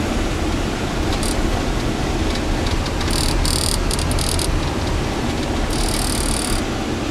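A car driving through snow, heard from inside the cabin: a steady, loud rumble of road and engine noise. Twice, about three and six seconds in, there is a high squeaking or scraping for about a second.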